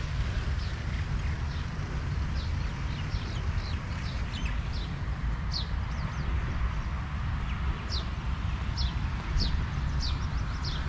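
Small birds chirping: short, high calls that sweep downward, repeated every half second to second and growing clearer in the second half, over a steady low rumble.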